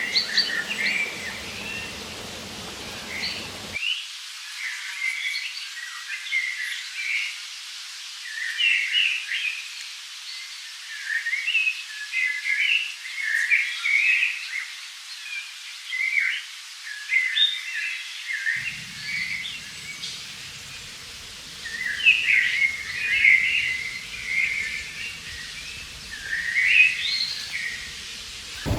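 Several songbirds chirping and singing in quick, short phrases, one after another, over a steady faint background hiss.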